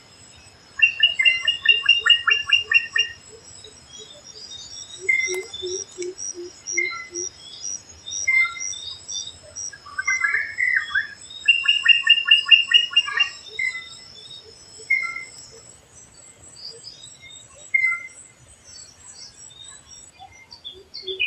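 Drongo calling: short sharp chirps repeated every second or so, with two bursts of rapid trilled notes, one near the start and one about halfway. A run of low pulsed notes comes between them, and a thin steady high whine runs underneath, stopping in the last few seconds.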